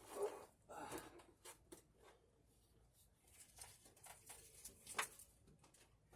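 Near silence with faint, scattered clicks and scrapes of hands and tools at work on the hose clamp, and one sharper click about five seconds in.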